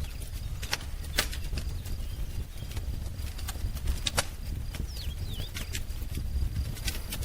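Wood fire crackling, with scattered sharp pops over a low steady roar. A couple of faint short bird chirps come about five seconds in.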